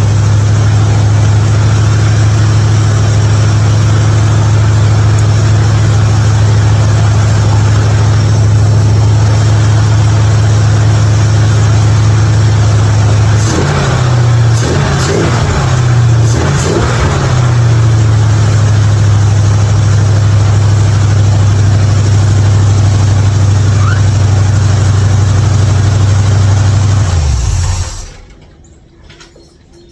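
Hot rod engine idling steadily and loudly, its pitch wavering briefly about halfway through, then stopping shortly before the end. It idles without popping now that the carburetor has been adjusted.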